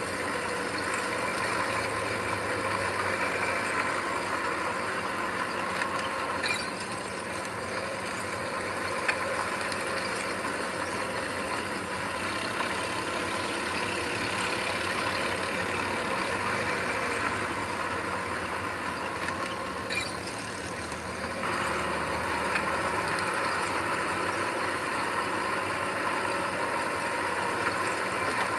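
Diesel engine of heavy earth-moving machinery running steadily, with a few short clanks, growing louder about three-quarters of the way through.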